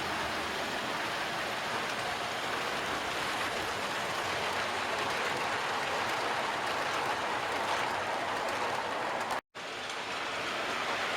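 Model train running on the layout: a steady rolling rush of metal wheels on track, with a momentary break near the end.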